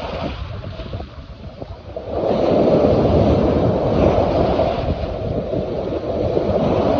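Hudson River water washing and splashing, with wind rumbling on the microphone. It eases off about a second in and swells up again after about two seconds.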